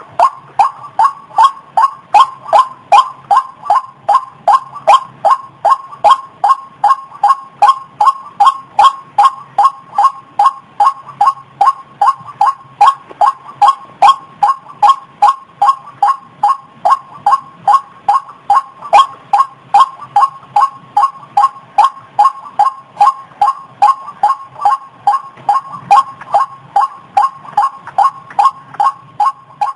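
White-breasted waterhen calling in a steady, fast series of short repeated notes, about two and a half a second: a recorded call played to lure waterhens.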